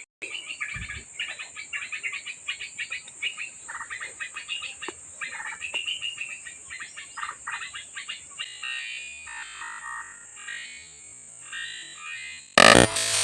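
Bird chattering: a rapid run of short chirping notes, dense for the first eight seconds and then sparser, over a steady high-pitched hiss. A loud knock comes near the end.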